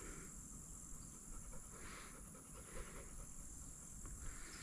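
Faint insect chorus in a field: a steady high-pitched drone that holds unchanged.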